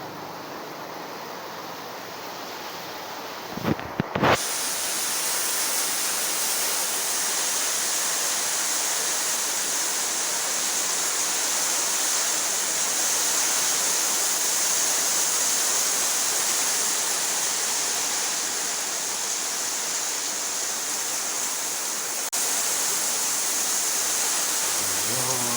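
Heavy rain pouring down steadily. A few sharp knocks come about four seconds in, after which the rain sounds louder and brighter.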